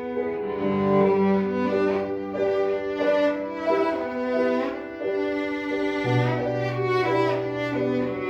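Cello playing a slow, sustained melody with piano accompaniment, dropping to low held notes near the end.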